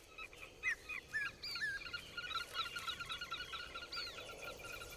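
Small birds calling faintly: short arched chirps, several in the first two seconds and another about four seconds in, over a steady rapid trill of repeated notes.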